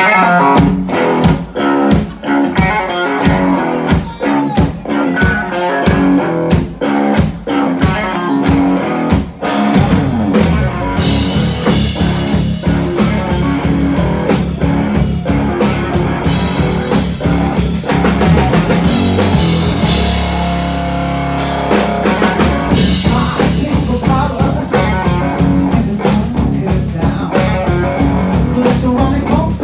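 Live blues-rock band playing with electric guitar, bass and drum kit. For about the first nine seconds the band hits short stabs together at an even rhythm, then breaks into full continuous playing with cymbals.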